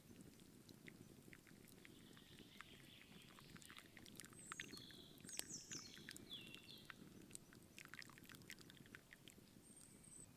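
Faint chirps of small birds, a cluster of short falling notes about midway, over scattered light clicks and crackles.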